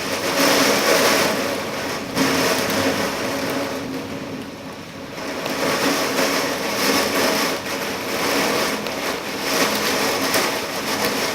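Heavy thunderstorm rain and wind as a steady rushing hiss that surges and eases, dropping back for a moment about halfway through.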